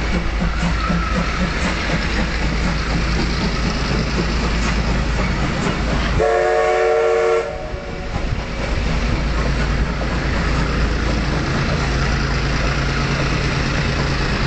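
Steam train running with a steady rumble and clatter. About six seconds in, the locomotive sounds one whistle blast of several notes at once, lasting just over a second and cutting off sharply.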